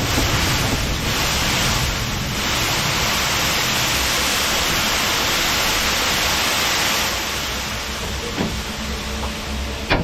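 Narrow gauge steam locomotive, a 1913 Orenstein & Koppel 0-4-0 well tank, letting off a loud, steady hiss of steam over the low rumble of the train. The hiss eases off about seven seconds in, and a sharp click comes near the end.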